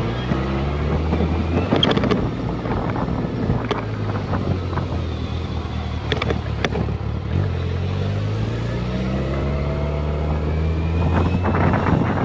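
Motorcycle engine running under way, its pitch climbing in steps as it accelerates through the gears near the start and again past the middle, with a few short knocks along the way.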